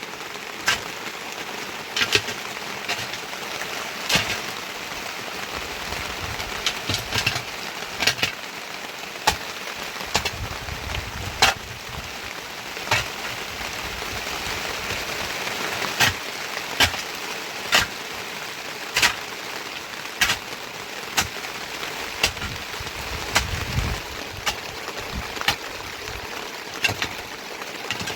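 Heavy rain falling steadily, with large single drops striking close by in sharp, irregular ticks about once a second.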